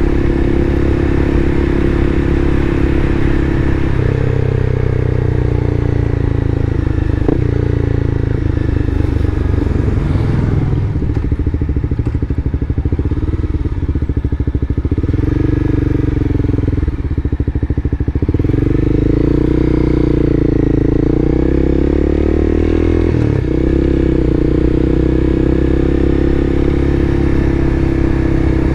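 Engine and road noise of a vehicle being driven at low speed, the engine note rising and falling as it speeds up and slows. A couple of short knocks are heard.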